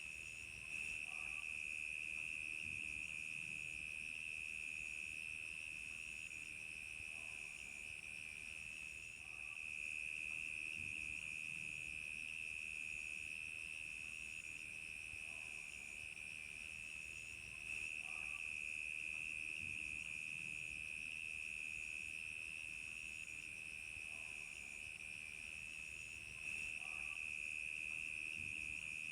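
Crickets chirping in a steady night chorus: a continuous high trill, with a faster pulsing chirp above it.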